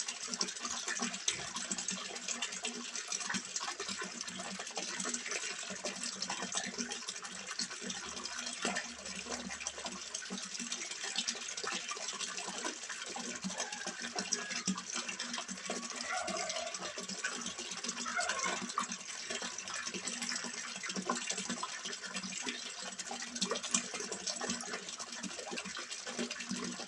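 Water splashing and trickling steadily into a small fish pond: a continuous, even patter.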